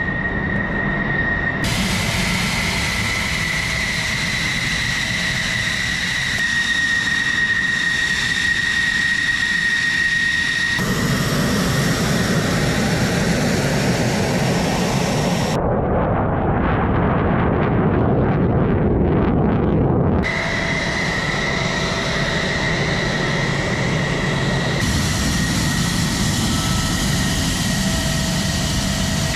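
F-16 fighter jet engine running, a steady loud rush with a high whine. The sound changes abruptly several times, and for a few seconds past the middle it turns to a duller, deeper rush without the high whine.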